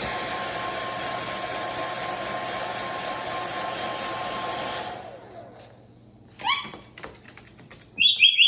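Hand-held hair dryer blowing steadily, then switched off and dying away about five seconds in. A rising call follows, and near the end comes a quick run of loud, high, whistle-like chirps.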